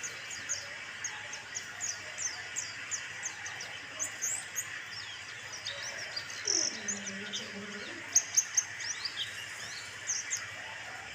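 White-eye (kacamata bird) calling: a rapid run of short, high chirps that sweep down in pitch, over a steady hiss, with a few louder chirps about eight seconds in.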